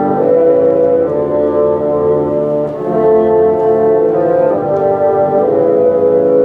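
Bassoon ensemble playing held chords in several parts, the notes moving together from one chord to the next.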